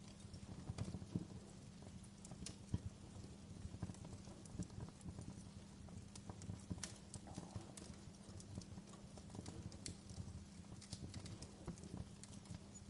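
Log fire burning in a fireplace, crackling with irregular sharp snaps and pops, a few louder than the rest, over a low steady rumble.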